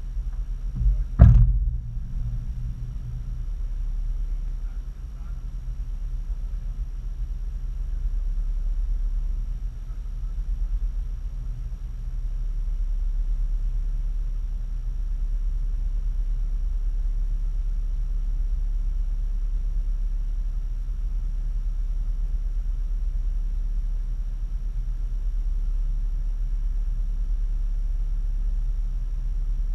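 Vehicle engine idling with a steady low rumble that grows a little louder about twelve seconds in. A single sharp knock comes about a second in.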